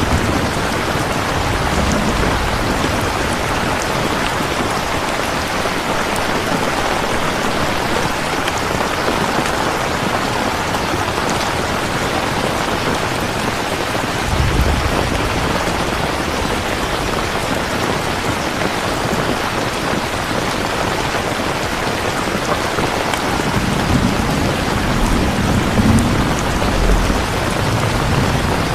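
Steady heavy rain falling on a surface, a dense even hiss. Deep rumbles of thunder come about halfway through and again towards the end.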